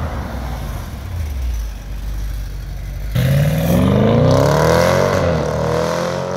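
A sedan's engine rumbling low, then about three seconds in accelerating hard, the revs climbing steeply for a couple of seconds and holding high as the car pulls away.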